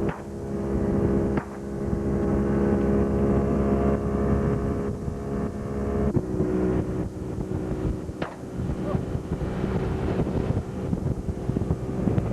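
Boat engine running steadily under way, with wind buffeting the microphone; the engine note steps slightly higher about six seconds in. A few brief clicks sound near the start and around the middle.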